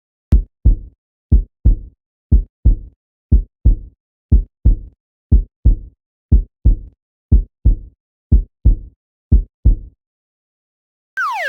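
Heartbeat sound effect: deep paired lub-dub thumps, about one beat a second, ten beats in all, then a short falling whistle-like tone near the end.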